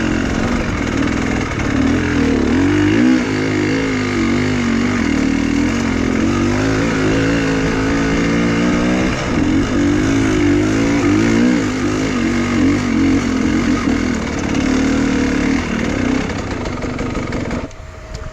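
Enduro motorcycle engine running hard, its pitch rising and falling as the throttle is worked, then dropping away sharply near the end.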